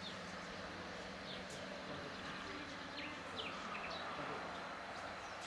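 Outdoor ambience: a steady background hiss, with small birds giving short, falling chirps every so often.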